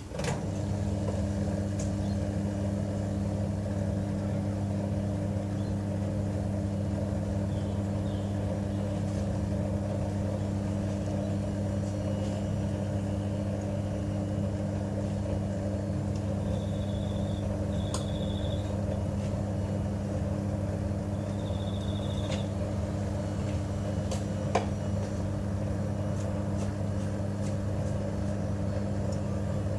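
LG TurboDrum top-loading washing machine starts a steady low mechanical hum with water noise, which holds level throughout. Around the middle come a few faint short high tones and a couple of single clicks.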